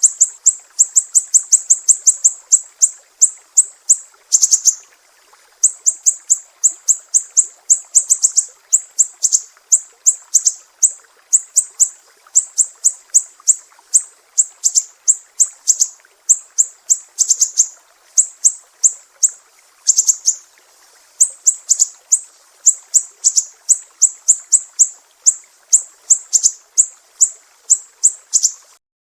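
Sumatran siri-siri bird singing a fast run of short, sharp, high chirps, several a second, in long strings broken by one brief pause. The song stops just before the end.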